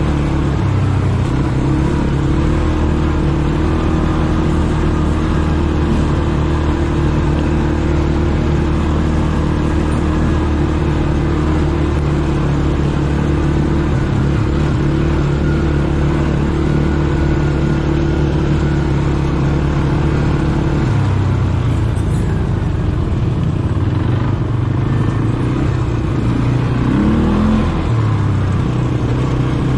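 ATV engine running under way, holding a steady pitch for most of the stretch, then rising and falling with throttle changes in the last third.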